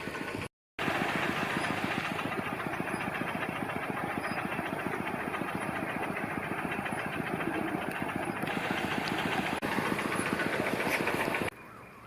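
Engine-driven paddlewheel pond aerator running steadily with a fast, even chug. It starts abruptly about a second in and cuts off suddenly near the end.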